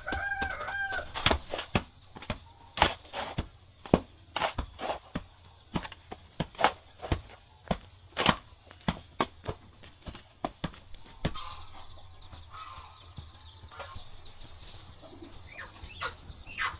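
A chicken calls a few times near the start, over a run of sharp, irregular knocks, a few a second, that stop about eleven seconds in. After that it is quieter, with faint bird calls.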